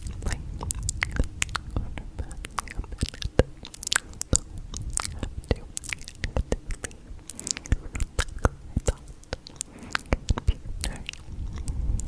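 Close-miked ASMR noises: a dense, irregular run of sharp clicks and crunches over a low rumble.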